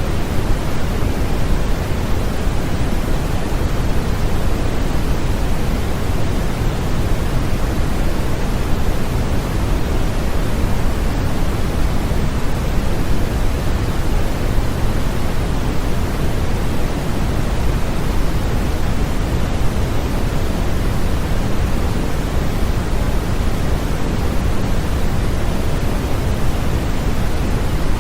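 Continuous synthetic white noise for infant sleep: an even, unchanging hiss, heavier in the low end than in the highs.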